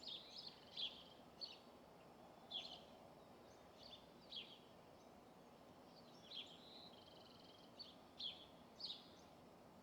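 Small songbirds chirping: a dozen or so short, high chirps scattered through, one drawn-out buzzy note about seven seconds in, over faint steady outdoor background noise.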